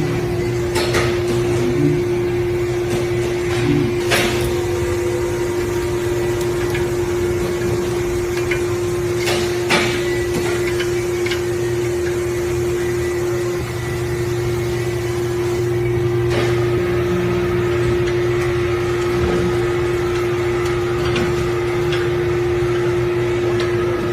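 Electric motor running with a steady hum, with a few sharp knocks or clicks over it.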